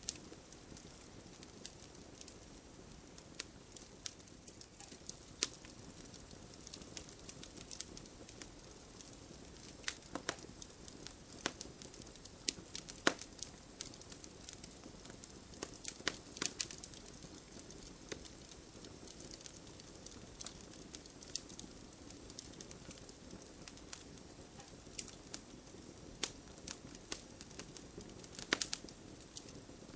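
Wood fire crackling in a fireplace: irregular sharp pops and snaps, some clustered, over a faint steady hiss.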